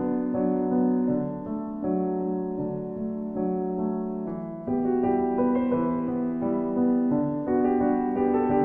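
Slow piano music: held chords that change every second or two.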